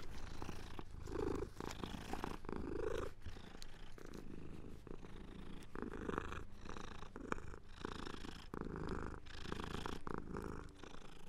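Domestic cat purring, the sound swelling and fading in repeated waves about a second long.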